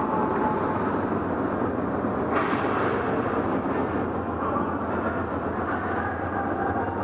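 A steady rumbling noise with no speech, and a brief hiss about two and a half seconds in.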